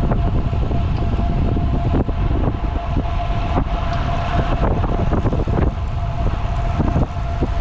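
Wind buffeting the microphone of a camera on a moving road bicycle, a loud steady rush with low road rumble and a faint steady hum underneath.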